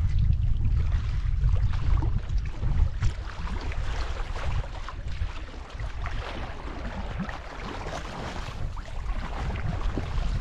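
Water splashing and dripping around a kayak, with wind rumbling on the microphone. The wind eases through the middle, where the splashes stand out, and builds again near the end.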